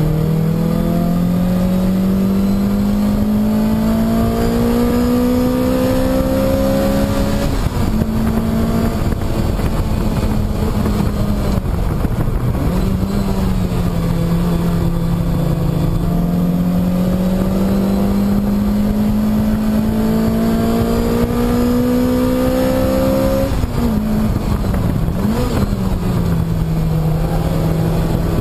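Lotus Exige engine heard from inside the cockpit on a fast track lap. The engine note climbs steadily under acceleration, drops sharply about 7 s in and again near 23 s as the driver comes off the throttle or shifts, and gives a short rise and fall about 25 s in, over a constant rush of road and wind noise.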